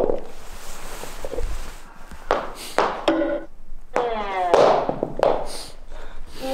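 A person wailing without words: several long falling cries, with a rush of noisy breath before them.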